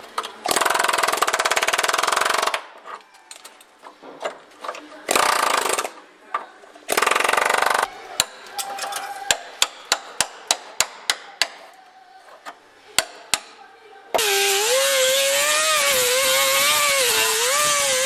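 Power tool on the Ford Escape's rusted sheet metal: three loud bursts of grinding. A quick run of about a dozen sharp metal taps follows. From about fourteen seconds in, a long steady grind runs with a whine that wavers in pitch as the load changes.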